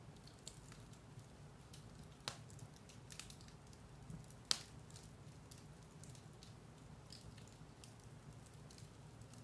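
Firewood burning in a fireplace: a low steady hiss with scattered crackles and pops, the sharpest about two seconds in and a louder pop about four and a half seconds in.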